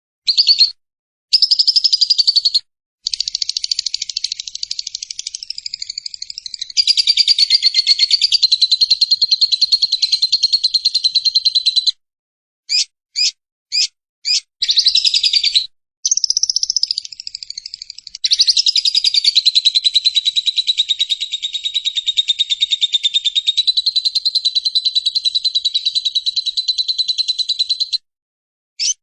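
Lovebird's long 'ngekek': a fast, unbroken, high-pitched chattering trill held for about nine seconds and then again for about twelve. Short chirping bursts come before and between the two long runs.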